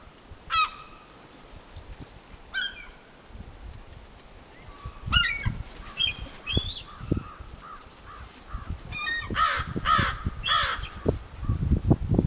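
Gulls calling: single calls every couple of seconds, then a run of several louder calls near the end, over low rumbling noise.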